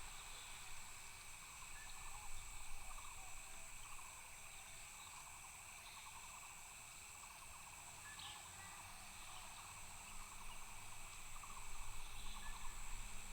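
Outdoor insect chorus: several steady high-pitched insect trills hold throughout, with short pulsed animal calls repeating about once a second. A low rumble comes up near the end.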